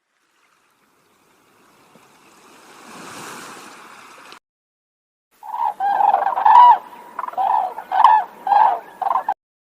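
An animal calling in a run of about seven short, pitched calls, roughly two a second, after a few seconds of faint rustling noise.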